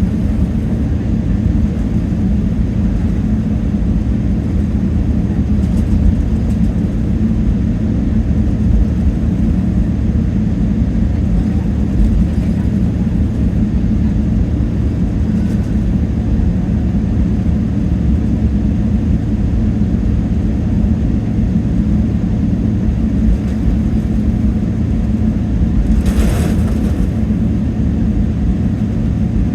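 Steady cabin drone of a Boeing 777-300ER in flight: the low hum of its GE90-115B engines under the rush of air along the fuselage. A brief hiss rises above it near the end.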